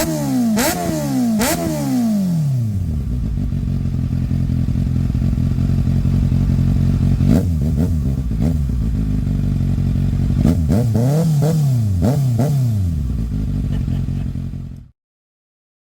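2024 Kawasaki Ninja ZX-6R inline-four engine through an aftermarket exhaust, blipped in quick revs at first, then idling with short throttle blips and one longer rev later on. The sound cuts off suddenly near the end.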